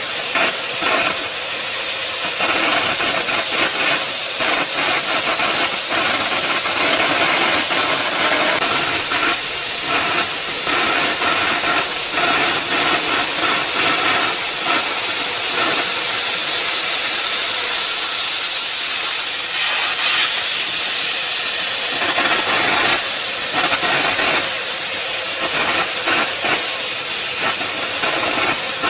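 Steady, loud hiss of the oxy-fuel cutting torch on a CG1-30 track-type gas cutting machine, with its flame burning through steel.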